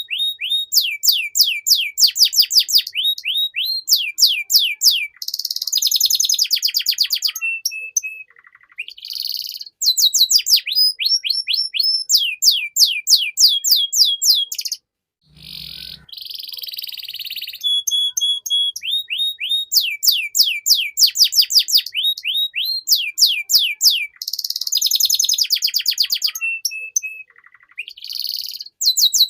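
Domestic canary singing a long, continuous song of fast repeated trills, each phrase a rapid run of identical notes before switching to the next, with a brief break about halfway through.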